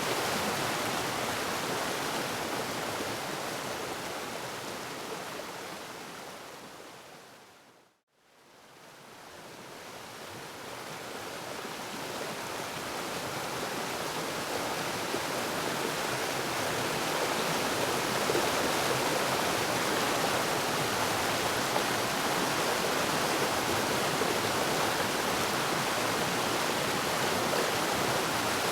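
Waterfall rushing steadily, a dense even roar of falling water; it fades out to a brief silence about eight seconds in and then fades back up to full level.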